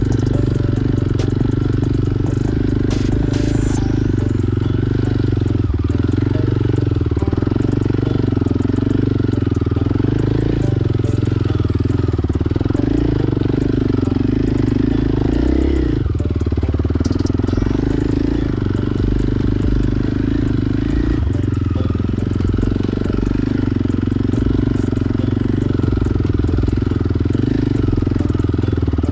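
Motorcycle engine running steadily while riding along, with no marked revving or pauses.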